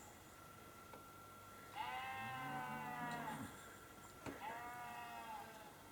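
A sheep bleating twice, each a long wavering call, about two seconds apart. A deeper animal call overlaps the first bleat.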